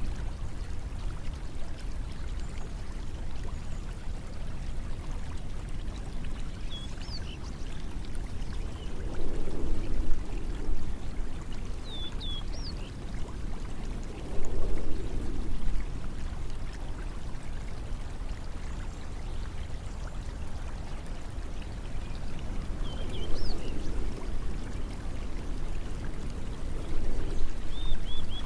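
Steady rush of flowing water that swells louder four times, with a few short high bird chirps over it.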